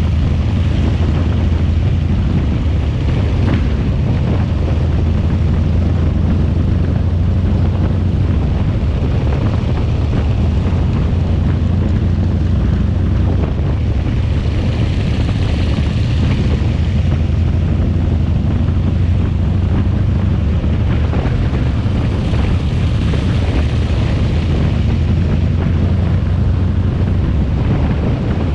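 Harley-Davidson V-twin motorcycle engine running steadily under way, with wind rushing over the microphone. A brief higher-pitched rise comes about halfway through and again a little later.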